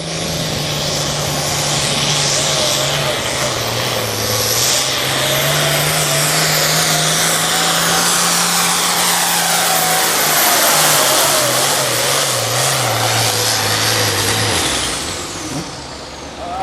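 A pulling vehicle's engine running flat out under heavy load through a pull run. Its note steps up and down, with a strong high whine over it, and it cuts back sharply about fourteen seconds in as the run ends.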